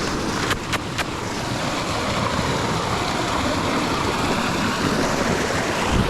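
Steady rushing of river water and a nearby waterfall, with three short sharp clicks between about half a second and one second in.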